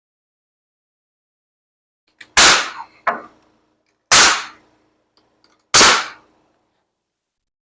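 Pneumatic nail gun firing nails into framing lumber: four sharp shots starting about two seconds in, the second one quieter. The compressor's regulator pressure is set high, which drives the nails in hard.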